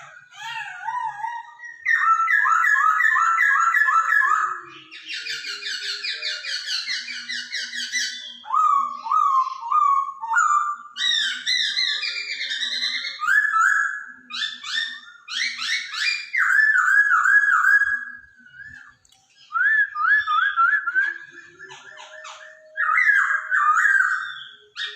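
Hwamei (Hongkong poksay) singing: loud, varied whistled phrases, each a quick run of repeated notes, changing phrase every second or two, with a short pause about two-thirds of the way through.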